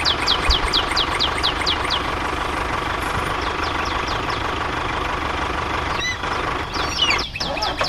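A small motor running steadily with a thin steady whine. During the first few seconds a bird gives a quick series of falling chirps.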